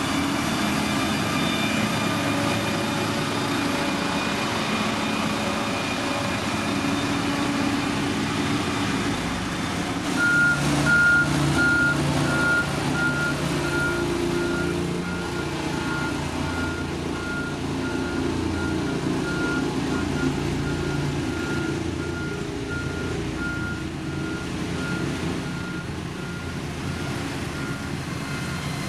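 Diesel engines of heavy construction machinery running steadily. About a third of the way in, a reversing alarm starts beeping at an even pace and keeps on.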